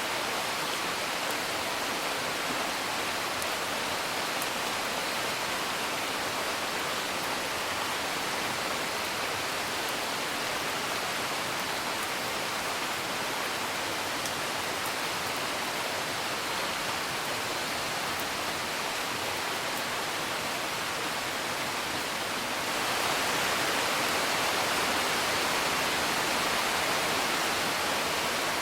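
Steady rain, heard as an even hiss, with faint crackles of a wood fire. The rain swells a little louder for the last several seconds.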